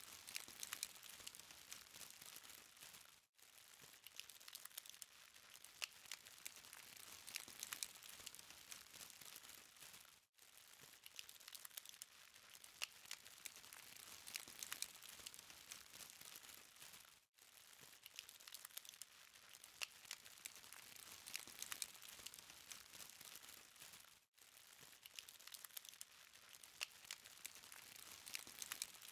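Charcoal fire crackling faintly: a steady high hiss with many small sharp pops and ticks from the burning coals, broken by a brief gap about every seven seconds.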